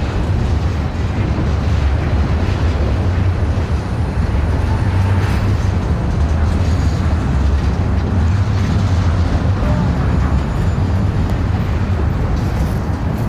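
A train running by, a loud, steady low rumble with a rushing noise over it and no horn.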